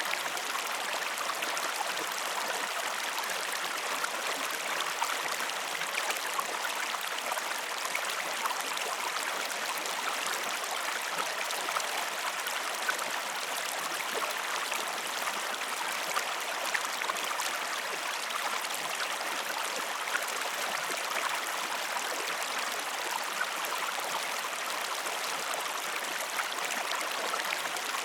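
Steady rushing of a flowing river, an even hiss of running water with small splashes scattered through it.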